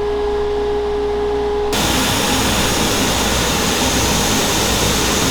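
Shop machinery running: a steady motor hum with a held whine, then, suddenly, a loud, even rushing noise about two seconds in, as from the table saw and dust collection running.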